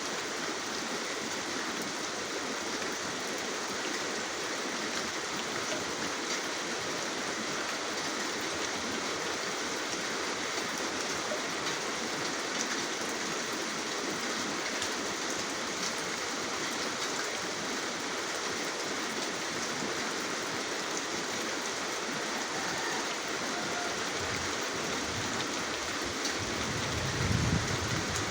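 Steady, heavy rain falling, a dense even hiss with scattered drops ticking through it. Near the end a low rumble swells briefly underneath.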